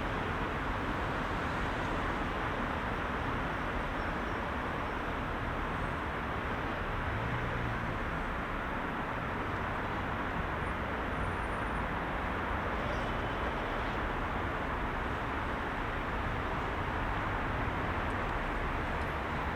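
Heavy rush-hour city road traffic: a steady wash of engines and tyre noise from many passing vehicles, with no single vehicle standing out.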